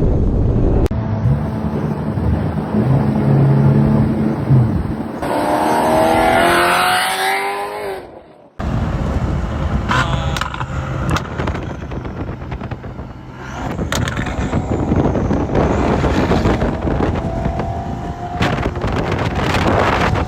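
Supercar engines and exhausts accelerating hard, the engine note rising in pitch twice, across several short clips cut together with a brief drop-out about eight seconds in.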